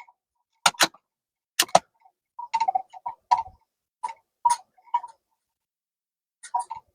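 Bolt of a CZ 457 bolt-action rimfire rifle being worked between shots: two quick pairs of sharp metallic clicks in the first two seconds, then a run of lighter, irregular clicks and ticks.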